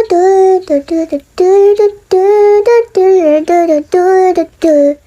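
A high-pitched voice singing a short, repetitive tune in about nine held notes, mostly on one pitch with a few dropping lower at their ends.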